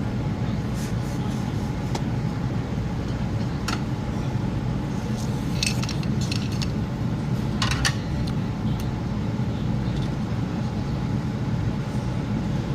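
Steady low rumble of a running truck, with a few light clinks and rattles of small hard objects, mostly a little past the middle.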